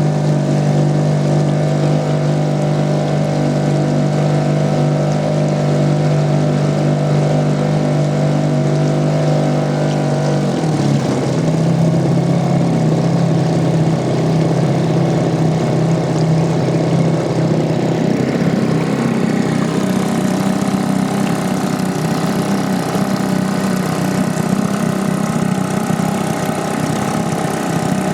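Fisher 2.5T small outboard motor running steadily under way; about ten seconds in its note steps slightly higher and turns rougher.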